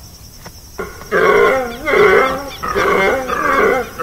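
Chital (spotted deer) stag calling: a series of loud, wavering bellows, four or five in a row, starting about a second in.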